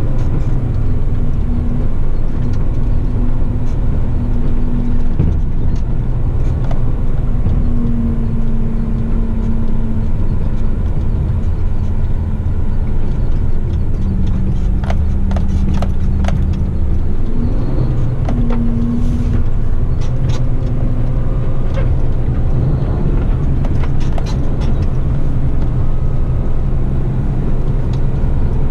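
Heavy rigid truck's diesel engine running steadily on the move, its note dipping in pitch about halfway through and rising back soon after, with scattered rattles and clicks.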